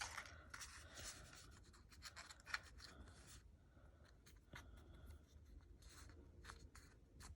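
Faint scratching and rubbing of paper being worked by hand, with a few light clicks.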